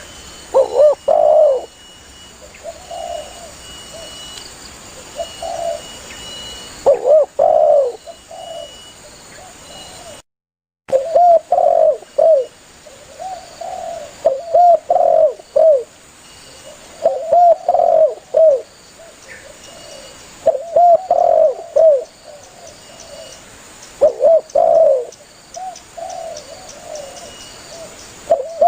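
Spotted dove (tekukur) cooing loudly and repeatedly, phrase after phrase of a few coos every two to three seconds, in full calling to its companions. The sound drops out completely for about half a second around ten seconds in.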